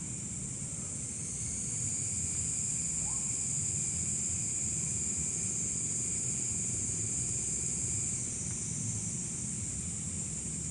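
Steady high-pitched chorus of night insects, swelling a couple of seconds in and easing near the end, over a low rumble of wind.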